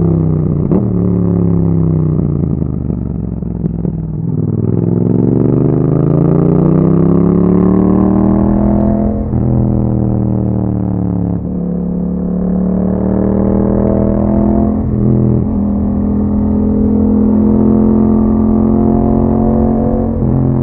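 2021 Yamaha MT-07's parallel-twin engine through an aftermarket Akrapovic exhaust, heard while riding. The pitch falls for the first few seconds as the bike slows, climbs steadily as it accelerates, and breaks several times at gear changes before the bike holds a steady cruise.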